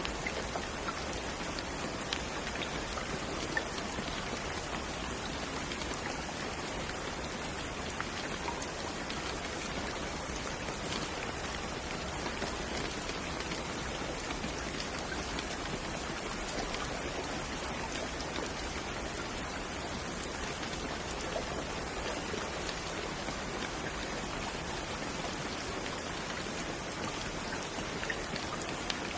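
Steady rainfall, an even hiss with scattered small drops ticking on a surface.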